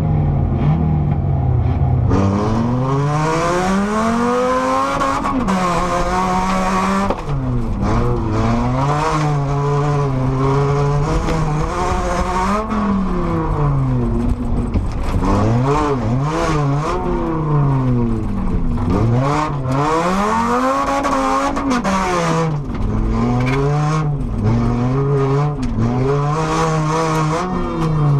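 Car engine heard from inside the cabin, revving up and falling back again and again as the driver accelerates, lifts and changes gear through the corners of a dirt race track. Tyre and road noise from the loose surface runs underneath.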